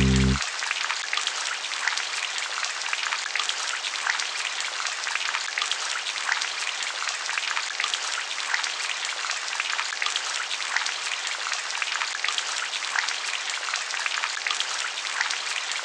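Steady rain: an even hiss with many separate drops ticking through it. A low held music chord cuts off about half a second in.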